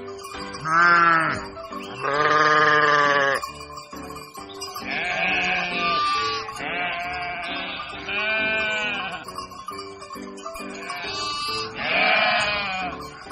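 Bleating, about six drawn-out calls in a row, one of them quavering, over background music.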